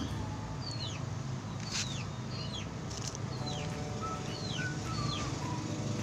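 Birds chirping: short, falling chirps several times a second, with a few brief higher whistled notes, over a low steady hum.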